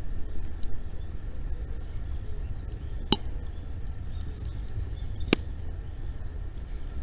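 Bonfire of dry wood burning: faint crackling with two sharp pops, about three and five seconds in, over a steady low rumble.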